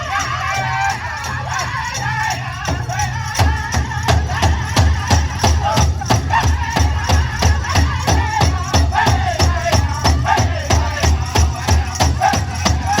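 Hoop dance song in Native American style: voices chanting over a steady drum beat, which comes in strongly about three seconds in.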